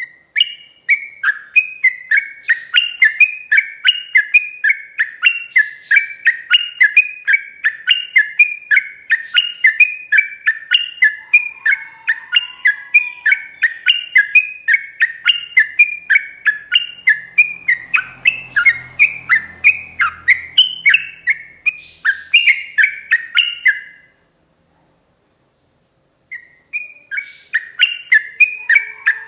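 Yellow-vented bulbul (trucuk) singing a long rapid 'ropel' song: a fast, even string of chirping notes, about three a second. It breaks off for a couple of seconds near the end, then starts again.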